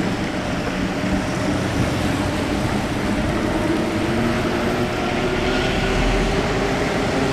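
Steady riding noise from a fat-tire e-bike on wet city streets: an even hiss of tyres and rain, with a faint steady hum under it.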